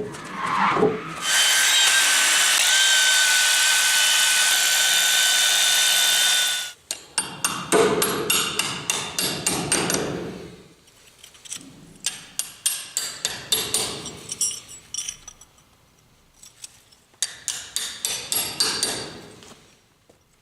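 A power tool runs steadily at full speed for about five and a half seconds, then stops abruptly. After it comes a series of quick, sharp knocks in several clusters, like hammer blows on steel or concrete, as short rebar pieces are set into the base slab.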